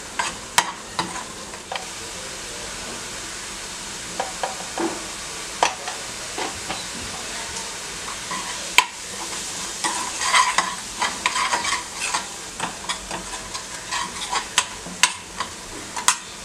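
Green coriander-chilli masala paste frying in oil in a metal kadhai, a steady sizzle under the clicks and scrapes of a steel spoon stirring it against the pan. The clicking grows busier in the second half. The paste is well fried, with the oil starting to separate.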